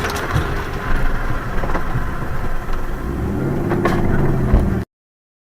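Vehicle noise, engine and road rumble as picked up by a car's dashcam, with a few short knocks. The sound cuts off abruptly about five seconds in.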